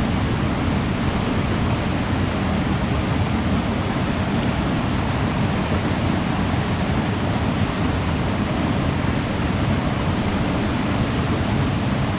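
Waterfall pouring steadily: a constant rush of falling water, fullest in the low range, with no change or break.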